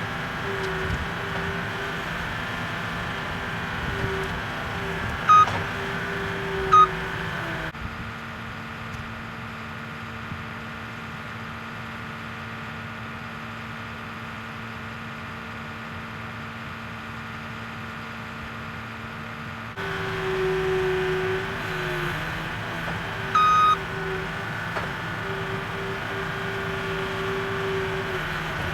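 A small engine running steadily, with short high beeps a few times. About eight seconds in, the sound switches abruptly to a quieter, lower steady hum for about twelve seconds, then the engine returns.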